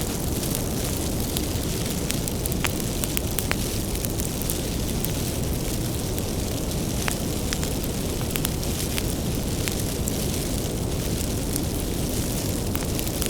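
Bonfire of firewood burning: a steady low rumble of flames, with sharp crackles and pops from the burning wood at irregular moments.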